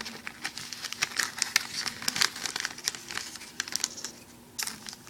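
Foil Yu-Gi-Oh booster pack wrapper being crinkled and torn open by hand: a run of irregular crackles, with a faint steady hum underneath.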